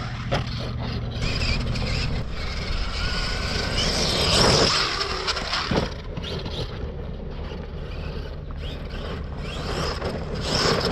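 Arrma Kraton RC car with a Leopard 700KV brushless motor, running and accelerating over rough dirt, its motor whine rising and falling over tyre and gravel noise. Two sharp knocks come about four and a half and six seconds in, from the car hitting the ground.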